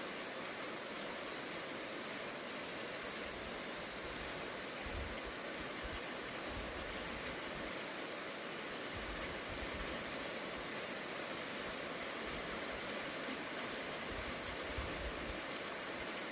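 Steady rain during a thunderstorm, a continuous even hiss, with brief low rumbles now and then.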